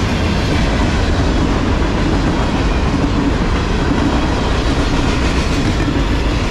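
Cars of a CSX mixed manifest freight train (covered hoppers, boxcars, tank cars) rolling past at close range: a loud, steady rumble of steel wheels on the rails.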